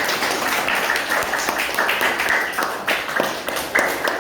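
A classroom of children applauding, many hands clapping at once in a dense, steady patter.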